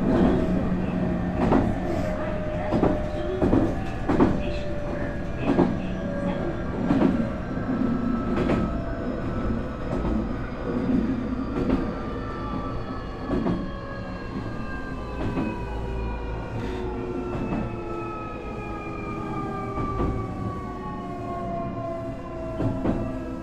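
Nankai 8300-series motor car's Toyo Denki TDK-6315-A totally enclosed induction traction motors and Hitachi two-level IGBT VVVF inverter whining in several tones that fall steadily in pitch as the train slows under braking. The wheels click over rail joints, and the clicks come further apart as the train loses speed.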